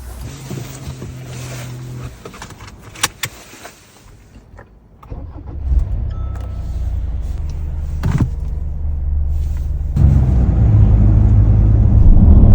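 A few clicks and a jangle of car keys, then a car engine starts about five seconds in and runs with a low rumble, growing louder at about ten seconds as the vehicle gets under way.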